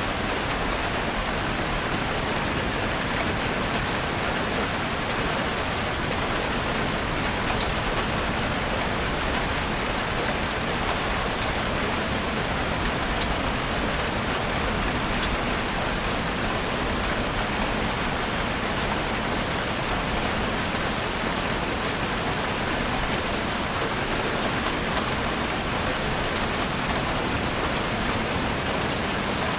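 Heavy rain falling steadily on a roof: a dense, even hiss with scattered drop ticks, unchanging throughout.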